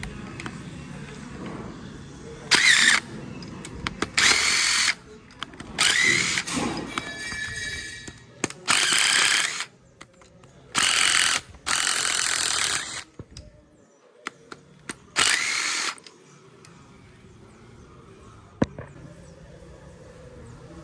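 A loud machine run in about seven short on-off bursts of rushing noise, each half a second to a second and a half long, some with a faint rising whine.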